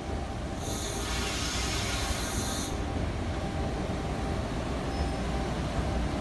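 Electric regional train running into the station along the platform, a low rumble that slowly grows louder as it comes close. A high-pitched hiss sounds from about half a second in and cuts off suddenly before three seconds.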